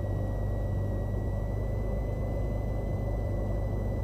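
Cessna 182's piston engine idling, a steady low drone as picked up through the cockpit audio, with a thin steady high whine running over it.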